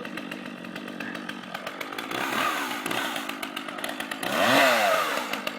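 Chainsaw engine running at idle, then revved: a rise and fall in pitch about two seconds in, and a bigger, louder rev near the end.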